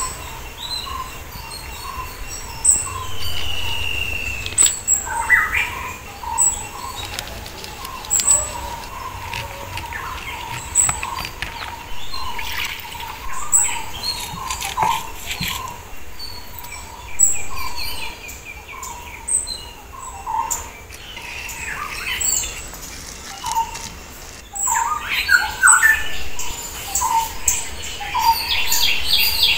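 Small birds chirping over and over, short notes repeating every second or so, with a few scattered light clicks and knocks; near the end a quicker run of chirps.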